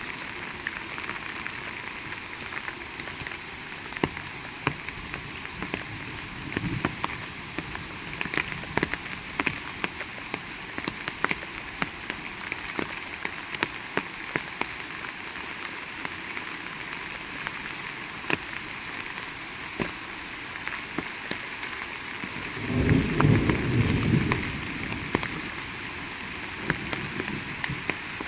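Heavy rain falling steadily, with many sharp drops striking close by. A louder low-pitched burst of sound lasts about two seconds near the end.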